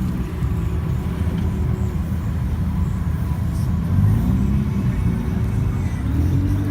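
Car engines running, with one engine's pitch rising and falling about four seconds in, as in a rev.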